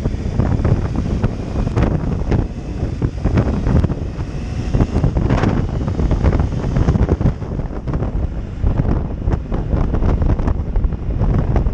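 Heavy wind buffeting on the microphone of a motorcycle riding at speed, in irregular gusts, with vehicle noise underneath.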